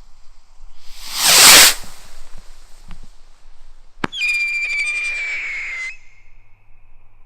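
Scream rocket launching with a loud rushing whoosh. A few seconds later comes a sharp crack, then a steady high-pitched whistling scream for about two seconds that dips slightly and trails off.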